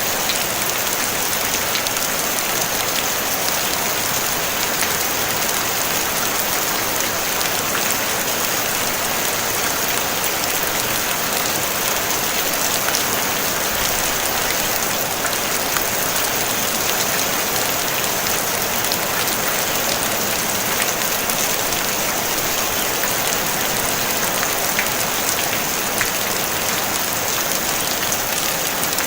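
Steady rain falling on a tin roof, a dense even hiss of drops with fine pattering ticks and no thunder.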